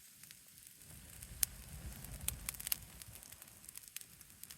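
Pine-wood bonfire burning: a low rumble of flames with scattered sharp crackles and pops, the loudest about a second and a half in and several more a little after two seconds.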